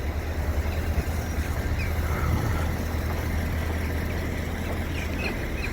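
Wind buffeting the microphone in a freezing gale: a steady low rumble with a rushing haze over it.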